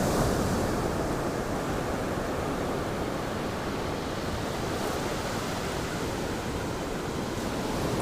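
Ocean surf washing onto the beach: a steady rush of breaking waves, a little louder at the start.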